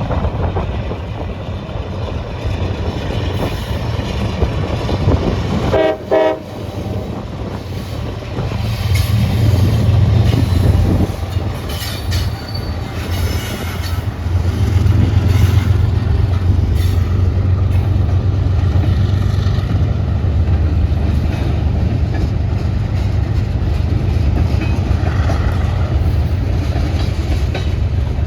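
Diesel locomotives of a departing freight train, with a low engine rumble that swells about eight seconds in and holds steady. There is a brief horn toot about six seconds in.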